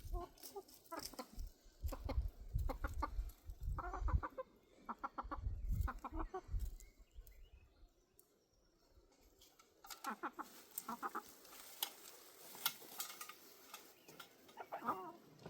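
Chickens clucking in short, repeated calls, in two spells with a lull in the middle, over a low rumbling noise in the first half.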